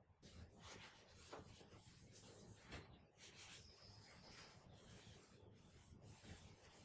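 Faint rubbing and light handling sounds, with a few soft scuffs and taps.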